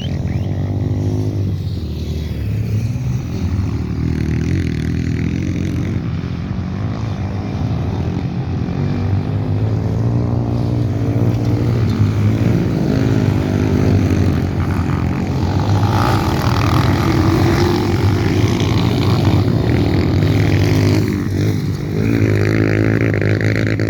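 Motocross motorcycle engines running and revving, their pitch rising and falling as the bikes race, with a sharp change in engine pitch near the end.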